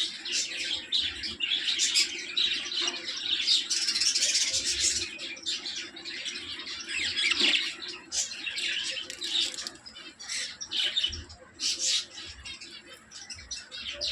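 Budgerigars chirping and chattering in rapid, overlapping high calls, busiest in the first half and sparser later on.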